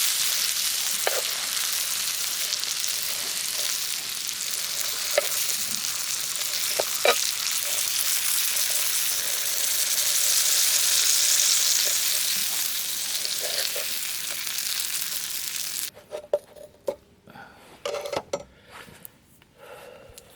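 Food sizzling and frying in a pan, a steady hiss with a few sharp pops. It stops abruptly about sixteen seconds in, leaving only light clicks and knocks.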